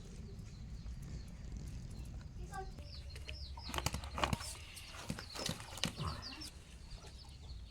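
Birds chirping, a run of short high chirps starting about halfway in, with several sharp clicks and knocks among them.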